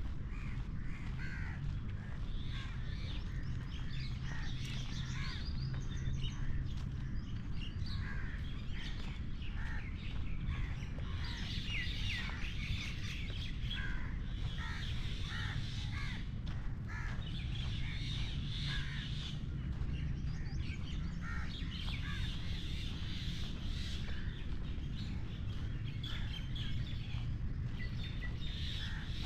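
Birds chirping and calling, many short calls overlapping, busiest through the middle, over a steady low rumble.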